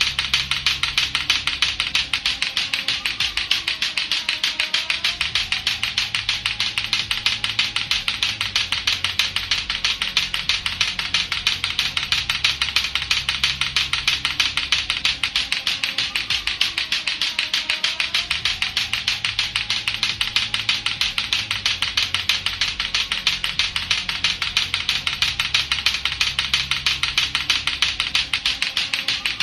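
Latto-latto clacker balls knocking together in a fast, steady, unbroken run of clacks, over background music with a bass line that repeats its phrase.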